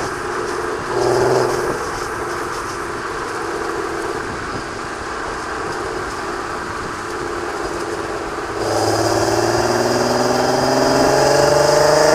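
A 3.6-litre VR6 engine running through a Varex valved exhaust muffler. About two thirds of the way in it gets louder, and the engine note then rises steadily in pitch.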